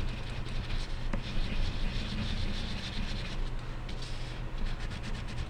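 Wax crayon rubbing and scratching on paper as an area of a drawing is coloured in, over a steady low background hum.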